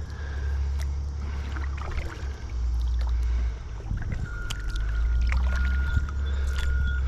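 Two-person kayak being paddled on a slow river: paddle strokes in the water and scattered light knocks against the hull, over a steady low rumble.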